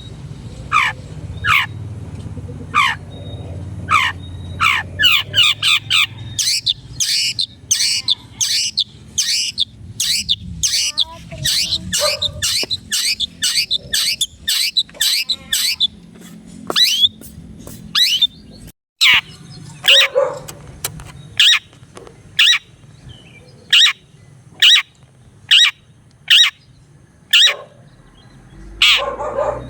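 Long-tailed shrike (cendet) calling in a long run of sharp, steeply falling notes. The notes crowd together in quick bursts through the middle, then settle to about one a second near the end.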